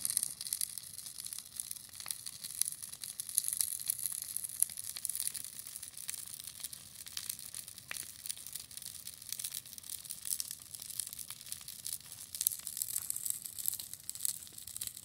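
Bonfire burning: a dense, irregular stream of small crackles and pops over a steady high hiss.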